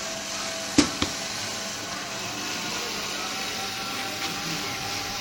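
Steady hissing rush from bike-wash equipment working on a motorbike, with a faint motor whine under it. Two sharp knocks come close together about a second in.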